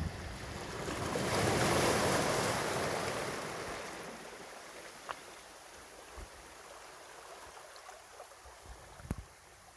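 A sea wave breaking and washing up the pebble shore, swelling about half a second in and fading away over the next four seconds, followed by a softer steady wash of surf. A few faint ticks and one sharp click come near the end.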